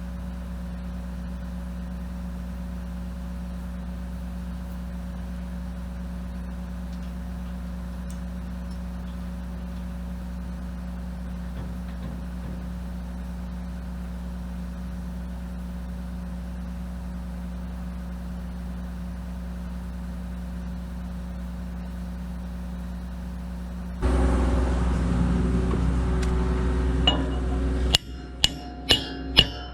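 Kobelco SK250 LC excavator's diesel engine idling steadily. About 24 seconds in it gives way abruptly to a louder engine stretch, and near the end plucked musical notes start.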